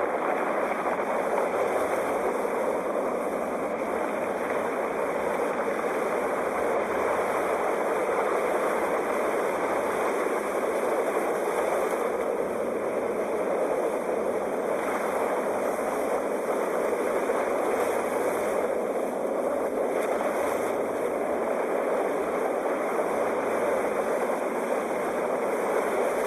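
Sea waves washing steadily, an even rushing noise that swells only slightly now and then, with no distinct breaking crashes.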